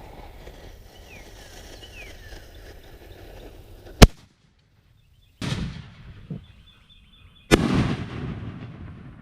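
A single sharp .308 rifle shot about four seconds in. After a short gap comes a firework mortar shell's lift-off burst, and about two seconds later the shell's louder aerial burst, with its echo trailing off.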